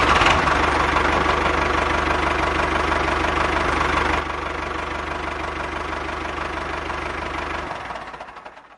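Engine running steadily at idle, stepping down in level about four seconds in and fading out near the end.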